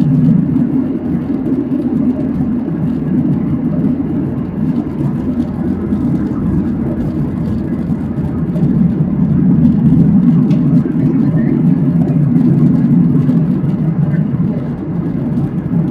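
Steady cabin roar of a Boeing 737-800 in flight: its CFM56-7B engines and the airflow heard from inside the passenger cabin, a deep even rumble that swells a little and eases.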